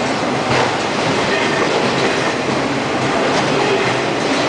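A freight train of autorack cars rolling past at close range: the steady noise of steel wheels running on the rails, with clickety-clack from the wheels over the track.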